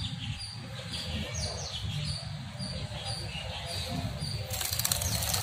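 Birds chirping faintly over a low steady rumble, with a brief rustling noise near the end.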